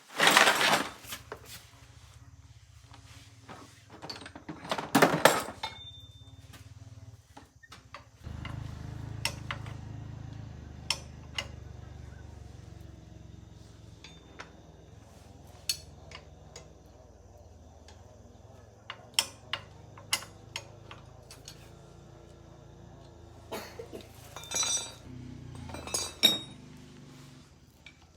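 Metal tools and parts clinking and clattering in a series of sharp clicks, with two louder noisy bursts near the start and about five seconds in. A low steady hum comes in about eight seconds in.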